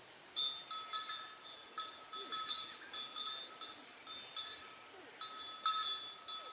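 A small animal neck bell clinking irregularly, a few strikes a second, each a short bright ring at the same pitch, as the animal moves while grazing.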